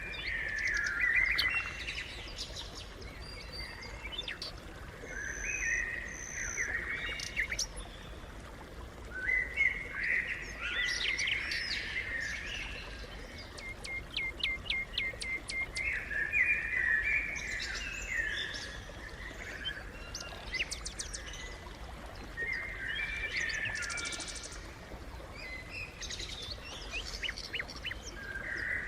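House sparrows chirping in irregular bursts, several birds calling over one another, with a quick run of short high ticks about halfway through.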